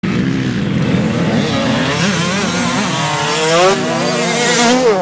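Off-road motorcycle engine revving, its pitch rising and falling with the throttle; near the end it revs up and drops back sharply.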